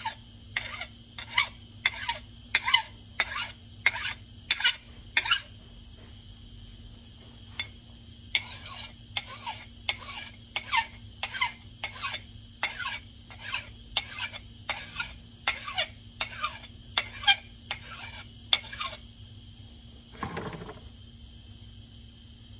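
Hand sharpening of a steel axe edge: a file or stone pushed across the edge in short, even scraping strokes, about one and a half a second, pausing for a few seconds about a third of the way in. A single lower, longer rub comes near the end.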